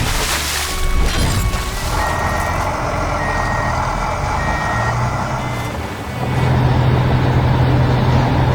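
Truck engine running with a reversing beeper sounding a series of short beeps. A loud hiss comes in the first second.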